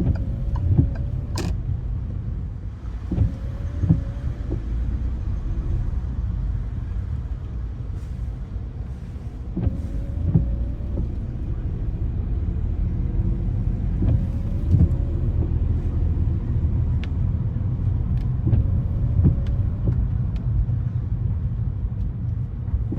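A car driving on wet city streets: a steady low rumble of engine and road, a faint hiss of tyres on the wet surface, and a few scattered light clicks.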